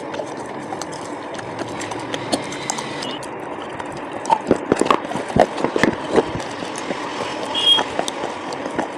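Close-up crunching of brittle coloured slate pencils being bitten and chewed, a quick cluster of sharp cracks a few seconds in, over a steady background rumble and hiss.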